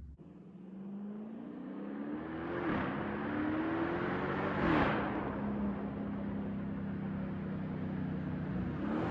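Straight-piped Dodge Challenger R/T's 5.7-litre Hemi V8 accelerating. Its pitch climbs and drops at upshifts about two and a half and four and a half seconds in, then holds steady at cruise, with another shift near the end.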